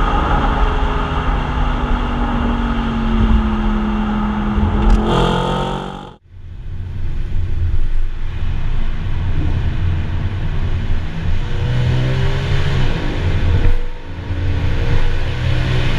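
Audi RS5 engine and standard exhaust while driving, running with a slowly falling note before a brief rise. It cuts out suddenly about six seconds in, then carries on at lower revs with a short rev-up near the end.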